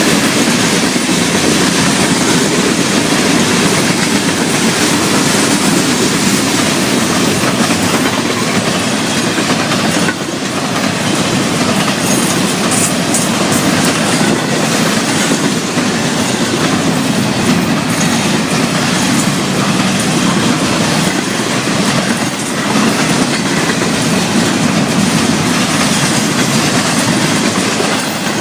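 Florida East Coast Railway freight train passing at speed: the cars rolling by with a loud, steady rumble and the clickety-clack of wheels over the rails.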